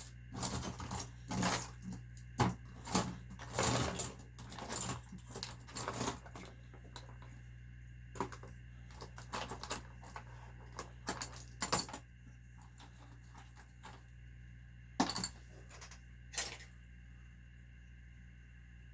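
Small metal engine parts and hand tools clinking and rattling on a workbench, in quick clusters at first, then as scattered single clicks.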